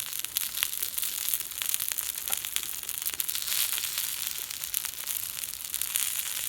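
Bone-in meat sizzling on an iron griddle: a steady hiss full of small crackles as the fat spits, with the meat not yet cooked through to the bone.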